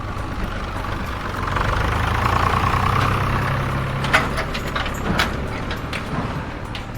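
An engine running steadily, like a tractor engine idling, swelling a little in the middle, with two sharp clicks about four and five seconds in.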